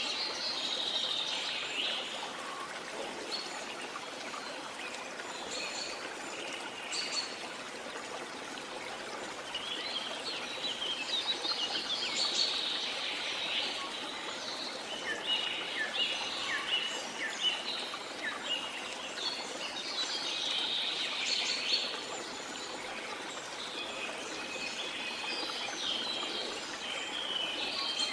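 Rainforest birds chirping and calling in bursts, several at once, over a steady rush of flowing water.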